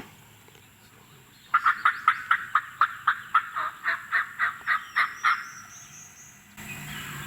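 A loud series of about fifteen turkey yelps, evenly spaced at about four a second for some four seconds, then stopping.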